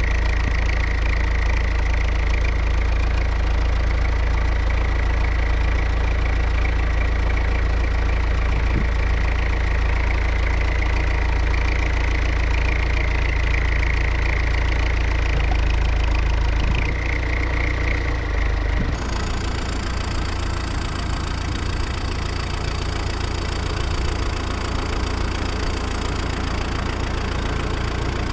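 Front loader's diesel engine running steadily under hydraulic load while the loader arm is raised, with a wavering whine above it. The sound changes abruptly about two-thirds of the way through to a different steady engine note with a thin high whine.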